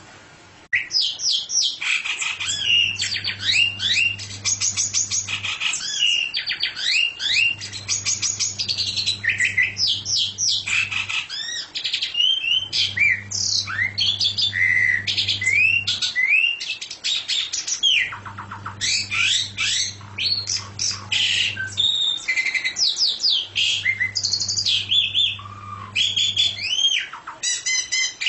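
A songbird singing a fast, varied, continuous song of chirps, whistled sweeps and trills, starting about a second in. A low hum comes and goes every few seconds underneath.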